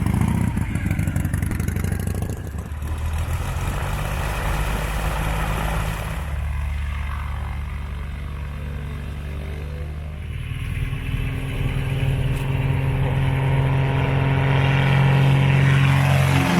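Motorcycle engine running under way, its note shifting at about six and ten seconds, as with gear changes, and growing louder toward the end.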